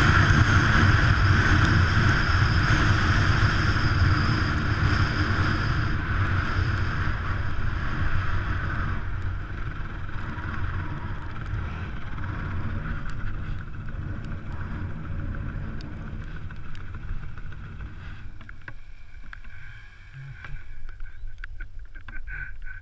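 Enduro motorcycle engine running steadily with a rushing noise, gradually fading over about twenty seconds and dropping away near the end.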